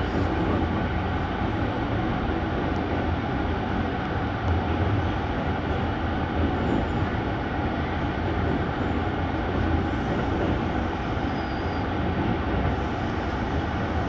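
Passenger train running along the track, heard from on board: a steady noise of wheels on rails and the moving carriage.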